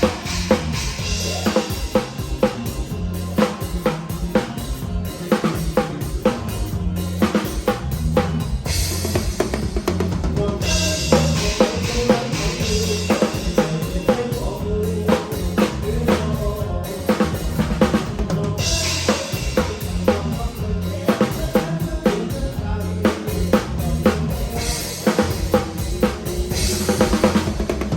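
Drum kit played in an upbeat band medley: steady kick and snare strokes with rimshots over a bass line and other instruments, with several stretches of cymbal wash.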